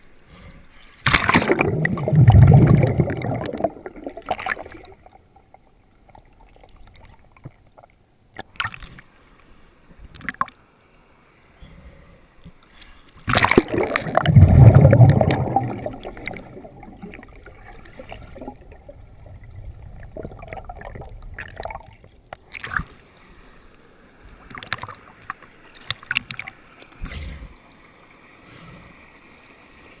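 Muffled underwater sound of fast, turbulent waterfall current rushing against a GoPro Hero2's waterproof housing, with two loud surging rushes, one about a second in and one about thirteen seconds in, and scattered knocks and clicks between them.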